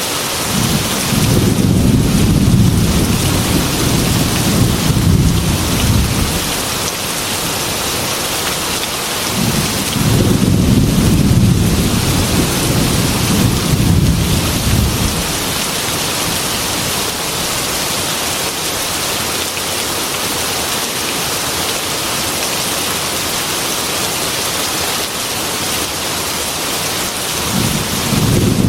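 Heavy rain falling steadily, with two long rolls of thunder, each rumbling for about six seconds, and a third starting near the end.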